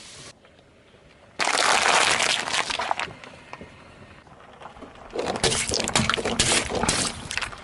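Brittle objects cracking and breaking as they are crushed under a vehicle's tyre, in two bursts of dense crackling: one starting suddenly about a second and a half in, and another in the second half.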